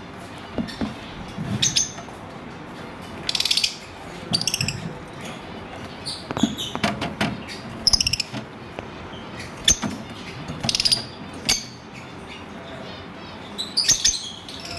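Lovebirds chirping in short, shrill bursts every second or so, with a few sharp clicks in between.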